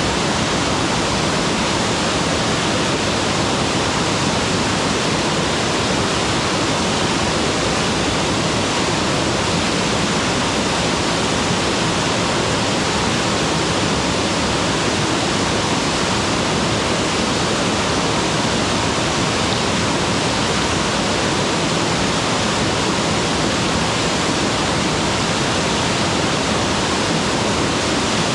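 Mountain waterfall: water pouring and splashing in a steady, loud, unbroken rush, with no changes or separate splashes.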